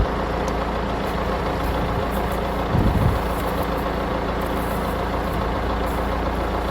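Tractor engine idling steadily, with a brief low thump about three seconds in.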